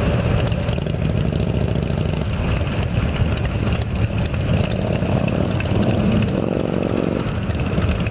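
Motorcycle engine idling with a steady low rumble, and a brief pitched change about six seconds in.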